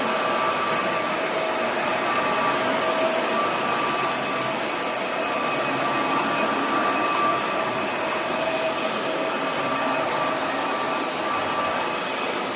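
Roborock F25 ACE cordless wet/dry vacuum cleaner running steadily: a constant rush of air with a faint steady motor whine.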